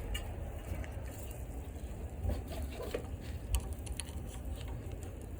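Low rumble with scattered light clicks and taps, the sharpest about three and a half seconds in.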